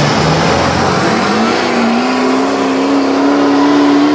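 Truck engine revving up about a second in and then held at high revs, a loud, steady pull under load.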